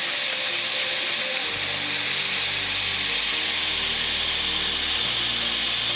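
Steady hiss of gas being blown through a one-door refrigerator's evaporator tubing during flushing, over background music with sustained low notes that change every second or so.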